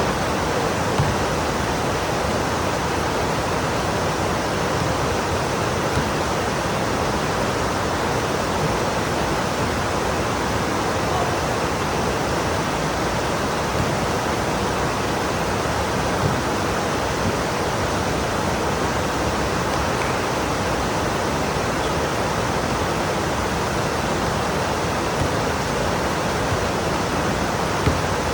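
Heavy rain pouring steadily, a dense even hiss with an occasional sharper tap of a drop.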